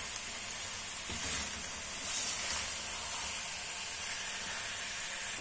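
Spinach, potato and chicken curry sizzling in the pan with a steady hiss as it cooks.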